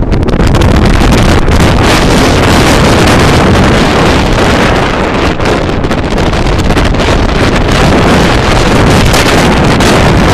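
Strong storm wind blowing hard across the microphone, a loud, steady rumbling noise.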